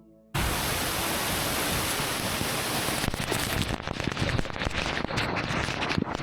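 Waterfall rushing and splashing, a dense, even roar that cuts in suddenly just after the start and turns more uneven and choppy about halfway through.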